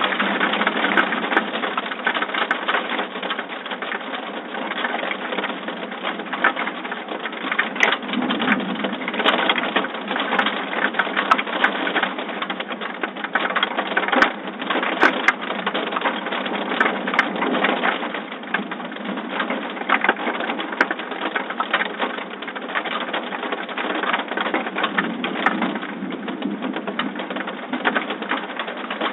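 Heavy thunderstorm rain pattering and splashing, a steady dense hiss full of rapid small drop ticks, heard through a phone's thin-sounding microphone.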